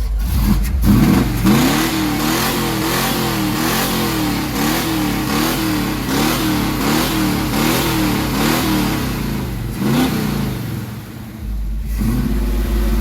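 Car engine revved over and over in quick blips, about two a second, the pitch rising and falling with each one. Near the end it settles and holds at a steady speed.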